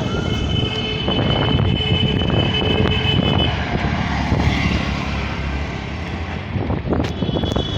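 Wind buffeting the microphone during a ride, with a dense low rumble of passing traffic. A steady high whine sounds over it for the first three and a half seconds, then stops.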